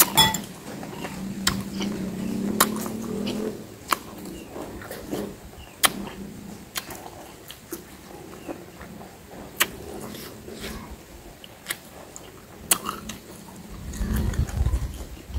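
A person chewing a mouthful of lime with green chili sambal: soft chewing with scattered short wet mouth clicks. A metal fork clinks once against a glass bowl just after the start, and a low rumble rises near the end.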